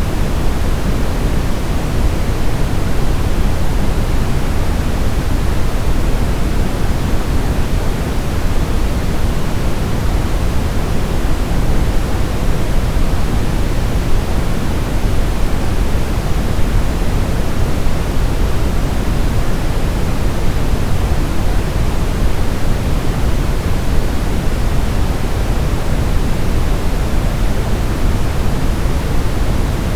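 Generated white noise used as a baby sleep sound: a steady, unbroken hiss that never changes. It is weighted toward the low end, so it sounds deeper, like pink noise.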